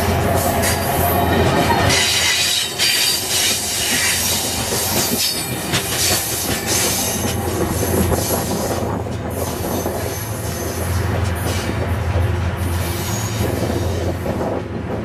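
Passenger train's steel coaches rolling past close by and pulling away, the wheels clicking over rail joints with thin high wheel squeals; the rumble eases a little as the last car recedes.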